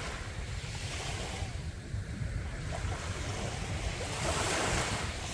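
Sea waves breaking and washing up a beach, the surf hiss swelling twice, stronger near the end, over a steady low rumble of wind on the microphone.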